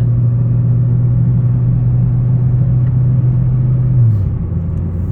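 Big-turbo MK6 VW GTI's turbocharged 2.0-litre four-cylinder running at steady part throttle, heard inside the cabin as a low steady drone over road noise. About four seconds in the engine note drops to a lower pitch and a little quieter.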